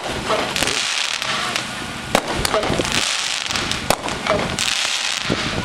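Consumer fireworks going off: a steady hiss from a ground fountain with several sharp cracks over it, the loudest about two, four and five seconds in.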